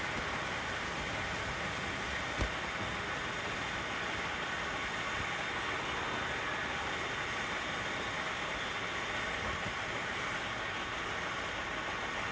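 Steady running noise of a container truck, heard from the driver's seat, with one short click about two and a half seconds in.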